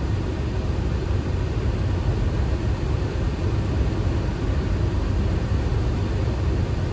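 Boeing 737 flight deck on short final just below decision height: a steady low rumble of airflow and engines.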